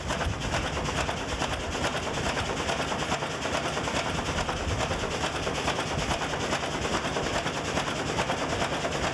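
1902 American LaFrance steam fire engine running under steam, its twin double-acting piston pump working steadily with a rapid, continuous chuffing and clatter.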